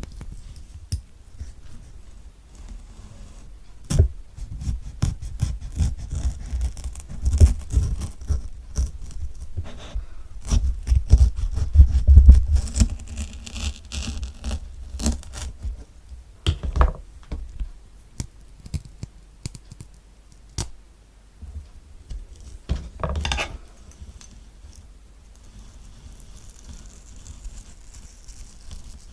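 Close-miked ASMR sounds of a knife cutting through a kiwi: crisp scraping, crackling and clicking as the blade works through the skin and flesh. Near the end a spoon starts scooping out the soft kiwi flesh, with quieter wet scratching.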